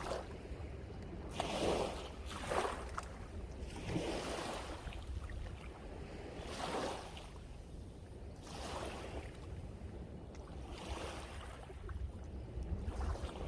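Sea waves breaking and washing up the shore, one surge after another every second or two, with wind rumbling on the microphone underneath.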